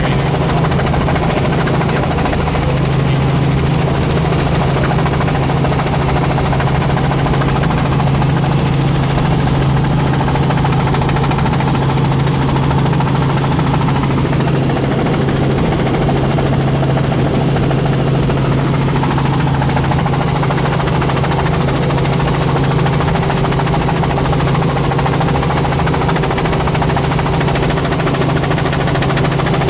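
Helicopter's engine and main rotor running in flight: a loud, steady drone with a strong low hum that holds level throughout.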